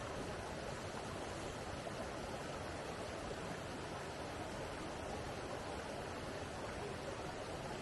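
Steady rushing of a flowing stream, an even, unchanging wash of water noise.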